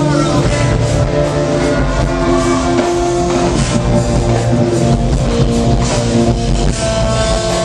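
Rock band playing live: guitar and drum kit at full volume, with steady sustained chords.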